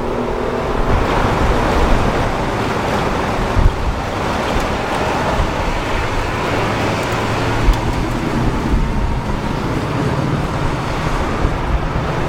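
Road traffic noise: a steady rushing wash of passing vehicles, with no single engine note standing out.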